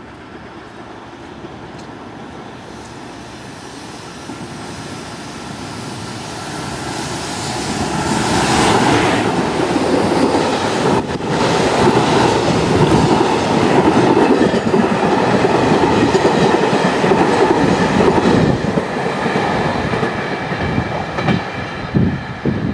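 A JR container freight train passing on the adjacent track, growing louder as it approaches and then holding a loud, steady rumble of wagons. Near the end the noise thins into a run of separate wheel clacks over the rail joints as the last wagons go by.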